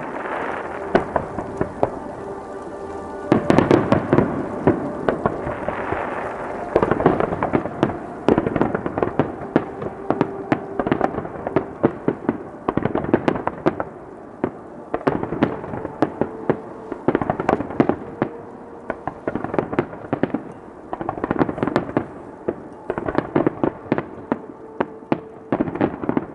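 Fireworks finale: rapid volleys of shell bursts and crackling from massed starmine launches, surging in waves every few seconds.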